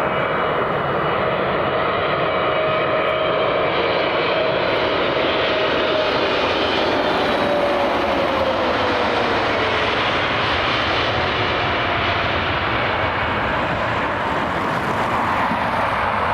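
Airplane engines running loud and steady as an aircraft passes by. A whine held in the noise drops in pitch about seven to ten seconds in.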